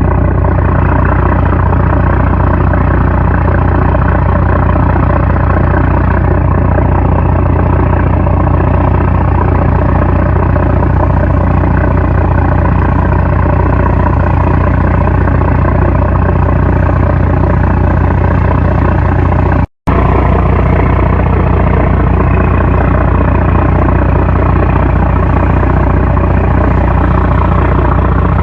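A fishing trawler's 750-horsepower diesel engine running loud and steady, with a deep rumble. A split-second break comes about twenty seconds in.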